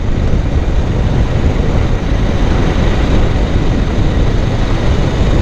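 Suzuki GS500F motorcycle under way at a steady pace, its parallel-twin engine running beneath a constant rush of wind on the microphone.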